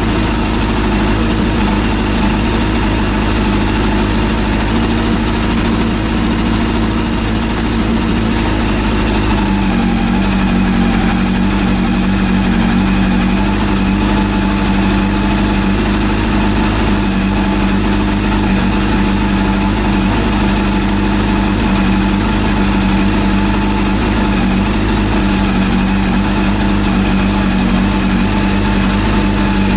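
Rebuilt Honda CB400 four-cylinder engine idling steadily while its idle speed is set to about 1,450 rpm. Its pitch drops slightly about nine seconds in.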